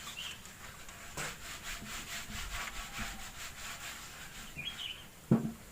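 Rapid, rhythmic scraping strokes, several a second, with two short high chirps, one near the start and one near the end.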